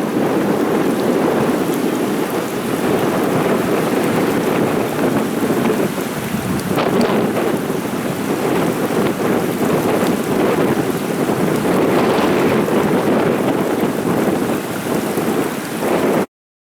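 Steady, loud rushing of storm water, a dense unbroken roar that cuts off suddenly near the end.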